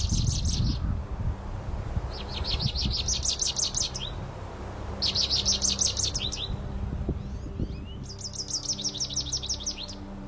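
American goldfinch singing: four bursts of rapid, high twittering trills, each about a second and a half long, over a low background hum.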